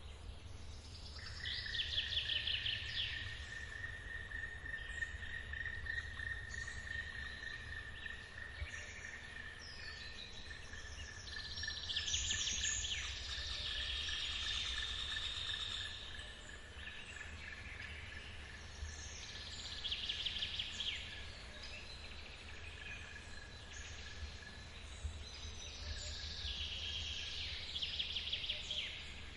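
Forest ambience: birds singing in four bursts of rapid high notes, over a steady, high, even insect trill that starts about a second in, with a low rumble of running water from the waterfall beneath.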